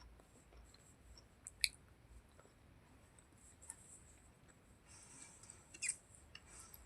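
Faint wet mouth sounds of someone chewing a mouthful of curry and rice: scattered small clicks and smacks, two of them sharper, about one and a half seconds in and near the end.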